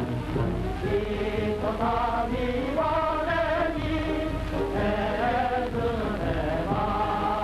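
Film soundtrack music: a group of voices singing together in long held notes that move slowly from pitch to pitch.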